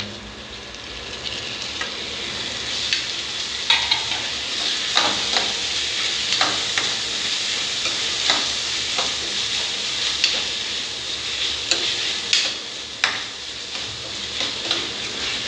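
Chopped tomatoes sizzling in hot oil in a kadai of fried onion and ginger-garlic paste, the hiss building over the first couple of seconds after they go in. A steel ladle stirs them, scraping and knocking irregularly against the pan.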